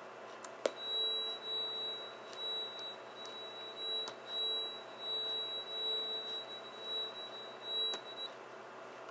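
A recording played back over a speaker: a steady high whine with a fainter lower hum that swells and fades in uneven pulses, starting with a click just under a second in and stopping near the end.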